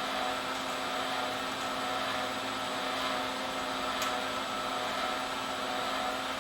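Wire-feed motor of a flux-core wire-feed welder running steadily, pushing new 0.035 flux-core wire up through the gun lead, with a faint click about four seconds in.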